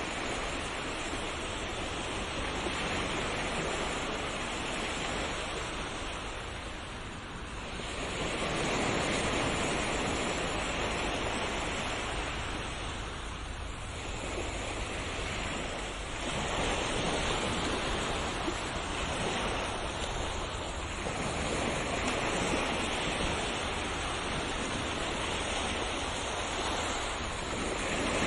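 Sea waves breaking and washing on a shore: a continuous rush that swells and eases every few seconds.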